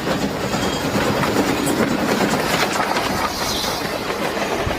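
A train running along the tracks, its wheels clattering steadily.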